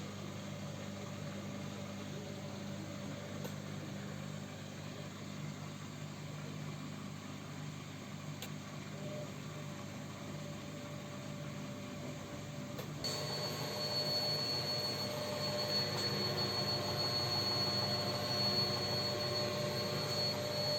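Gorenje WS40089 washing machine running with a steady low motor hum; about 13 s in it turns louder and a steady high-pitched whine joins in as the drum motor speeds up.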